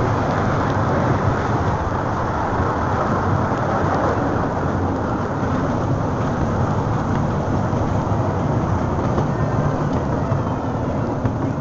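Old zoo steam train running along its track, heard from on board as a steady, even rumbling noise.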